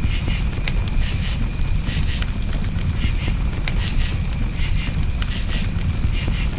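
Campfire burning with a low rumble and frequent sharp crackles and pops, while crickets chirp in steady repeated high pulses.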